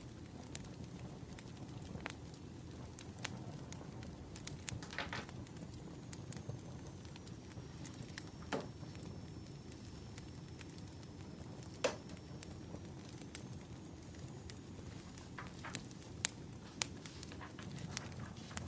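Burning firewood crackling, with irregular sharp pops, the loudest about twelve and sixteen seconds in, over a steady low rumble.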